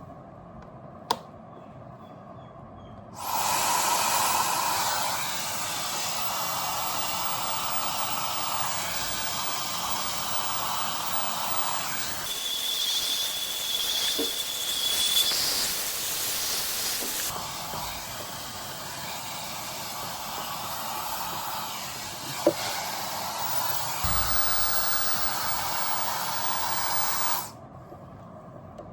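Headgame Cherry Bomb hairdryer running: a click, then about three seconds in a steady rush of air starts. Its sound changes for about five seconds in the middle, with a faint high whistle, then it cuts off suddenly near the end.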